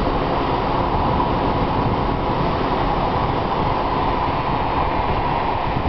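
Strong wind ahead of an approaching dust storm rushing steadily over the microphone, a loud low rumble with a hiss on top.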